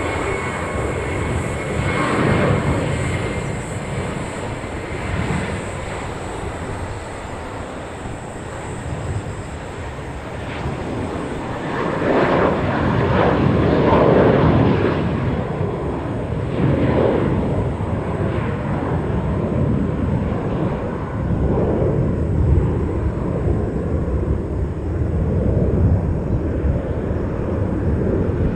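Air Macau jet airliner's engines passing close by: a continuous broad rush of engine noise with a thin high whine early on, growing loudest about halfway through and then easing off.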